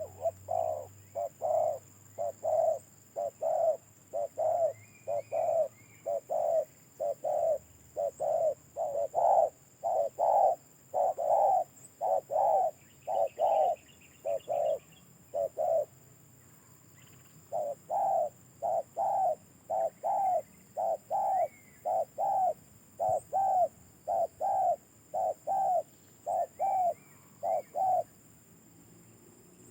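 Caged spotted dove (tekukur) cooing: a long run of short, evenly spaced coo notes, about one and a half a second, breaks off for a second or two around the middle, then starts again.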